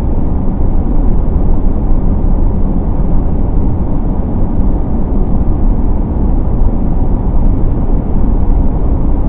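Steady, loud low rumble of road and wind noise from a moving car, with no distinct events.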